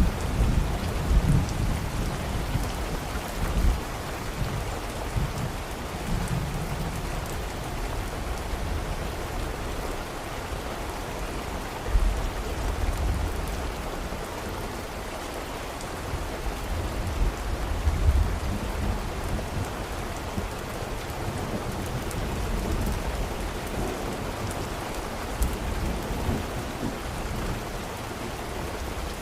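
Steady heavy rain with low rolls of thunder rumbling several times: near the start, about halfway through and again a little later.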